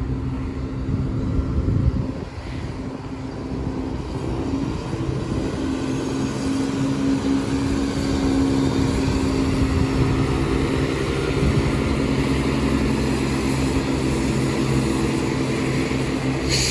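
Diesel engines of a Class 170 Turbostar multiple unit pulling out of the station. It is a steady diesel drone that climbs a little in pitch as the train gets under way.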